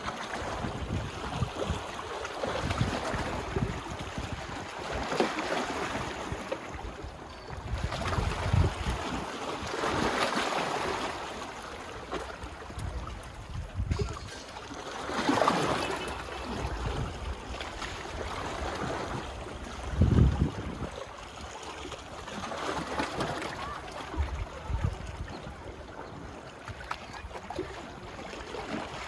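Small waves washing onto a beach, each swelling and fading every few seconds. Wind buffets the microphone in low rumbling gusts, the strongest about twenty seconds in.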